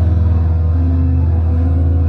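Live rock band's distorted electric guitars and bass ringing out a sustained low chord, loud and droning, without drum hits.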